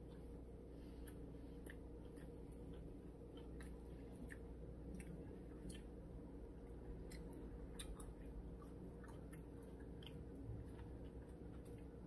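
A person chewing a mouthful of sub sandwich, with faint, irregular wet mouth clicks scattered throughout.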